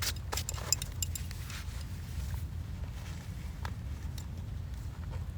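Steady low rumble of wind on the microphone, with a quick run of light clicks in the first second and a few more scattered later.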